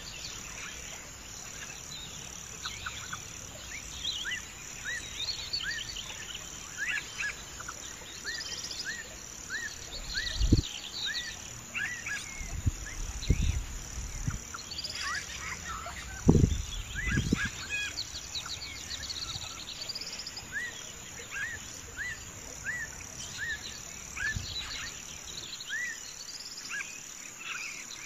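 Small birds chirping over and over in short, quick calls, over a steady high insect-like trill. A few dull low thumps come in the middle.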